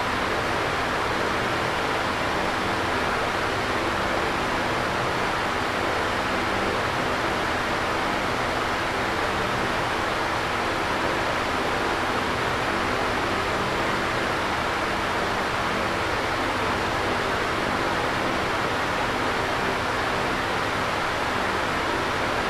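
Electric fan running steadily: an even whooshing rush of air with a low hum underneath.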